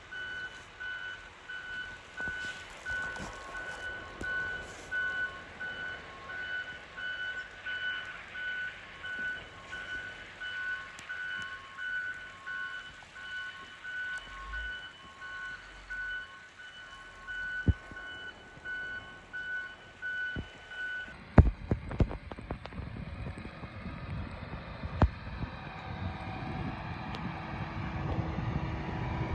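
Backup alarm of a snow-clearing road crew vehicle beeping steadily over and over, then cutting off about two-thirds of the way in. After it stops, gusty wind buffets the microphone.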